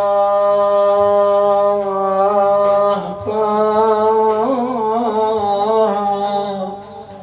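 Male munshid singing Iraqi Sufi praise (madih), holding one long steady note. About three seconds in he moves into an ornamented phrase with a wavering melisma, which fades out near the end.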